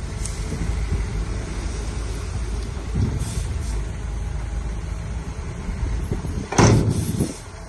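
Bulldozer's diesel engine running steadily at work, a constant low rumble, with a short loud knock near the end.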